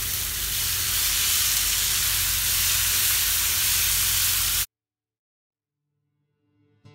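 Chili, shallot and garlic spice paste sizzling loudly in hot oil in a nonstick frying pan as it is stir-fried with a wooden spatula. The sizzle cuts off abruptly about two-thirds of the way through, leaving silence.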